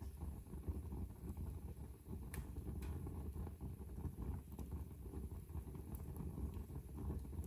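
Wood fire burning in a fireplace: a low, steady rumble from the flames with a few sharp crackles, the clearest about two and a half seconds in.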